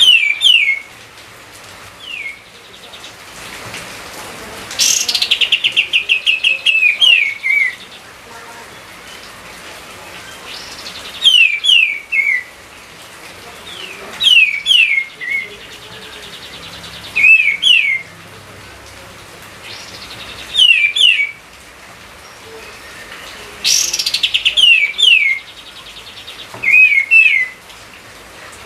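A songbird singing short, repeated phrases every few seconds: quick downward-slurred whistled notes, mixed with rapid buzzy chattering runs, over a faint steady hiss.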